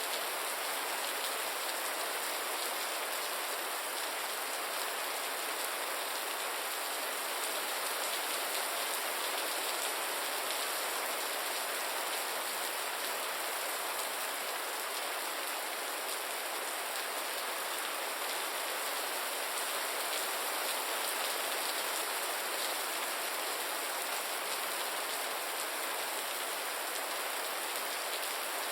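Gentle rain falling steadily, an even hiss of many drops with no thunder or change in strength.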